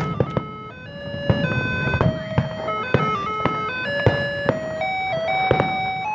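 A simple electronic tune played one note at a time, each note held and stepping up and down, over a string of sharp fireworks bangs and crackles.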